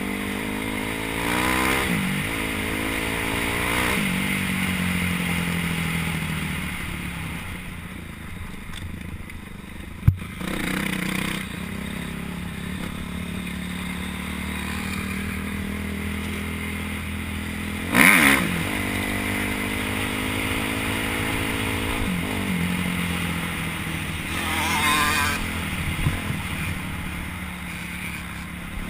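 Motocross dirt bike engine revving up and falling off again and again, with a sharp knock about ten seconds in and a louder burst near eighteen seconds.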